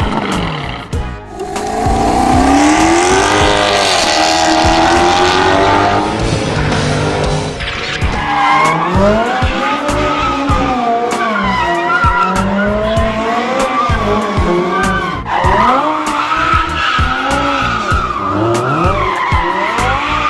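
Car doing burnouts: tyres squealing with a wavering pitch that rises and falls, over the engine revving.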